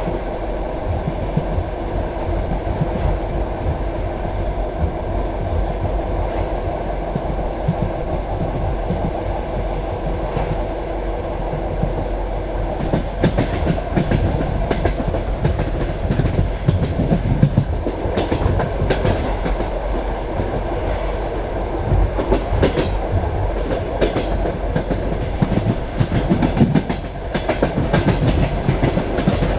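Passenger railway carriage running along the track: a steady rumble of wheels on rail with clickety-clack knocks over the rail joints, the knocks more frequent in the second half.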